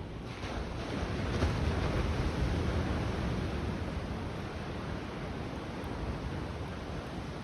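Waves washing onto a beach: a wash of surf that swells about a second in and slowly ebbs away.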